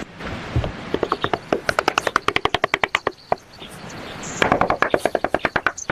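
Two quick runs of sharp, evenly spaced knocks, about seven a second, each run lasting a second or two with a short pause between them.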